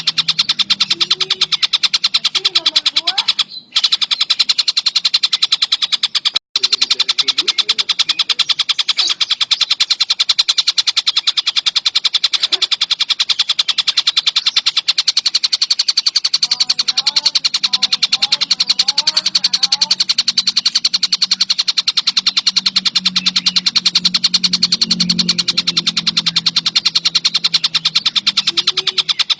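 Tengkek buto, a kingfisher, calling in a fast, unbroken chatter of rapidly repeated notes, with two brief drop-outs about 3.5 and 6.5 seconds in.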